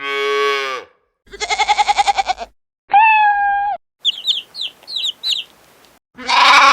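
A string of separate farm animal calls cut one after another: a bleat with a falling pitch, a trembling, quavering bleat about a second in, a held steady call, a run of about seven high chick peeps in the middle, and another bleating call near the end.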